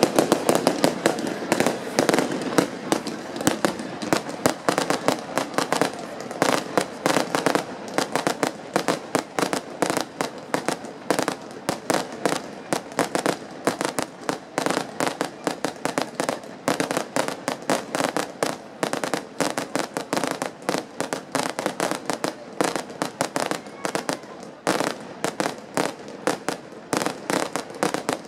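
Fireworks display: a continuous rapid barrage of bangs and crackles from bursting shells and firecrackers, many reports a second with no break, loudest in the first couple of seconds.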